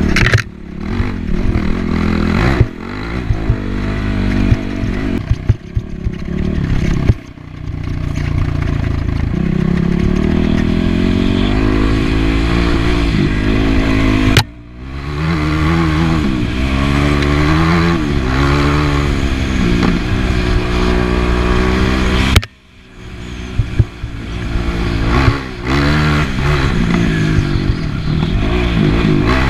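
Yamaha WR450F dirt bike's single-cylinder four-stroke engine revving up and down under way, its pitch rising and falling with the throttle. A few times the sound drops off sharply and then builds again.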